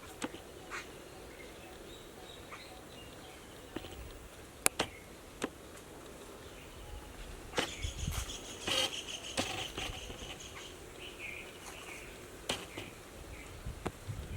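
Birds chirping over a faint insect hum, with a run of brief chirps about halfway through. A few sharp clicks and rustles come at irregular intervals.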